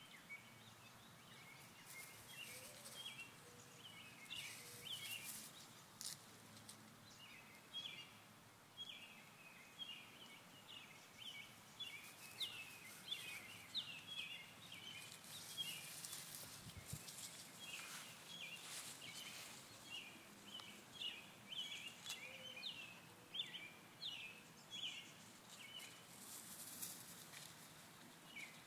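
Faint outdoor ambience of small bird chirps in quick irregular runs, with a light rustling hiss now and then.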